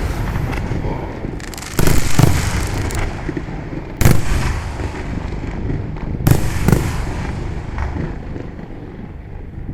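Fireworks display: aerial shells bursting in a run of loud booms, four main bangs with the last two close together about six seconds in. Each bang is followed by a lingering rumble and crackle.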